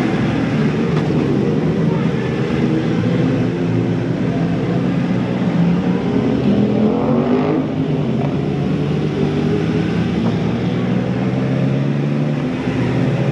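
Motorcycle engine and exhaust running under way, with the revs rising briefly about halfway through before settling back to a steady note.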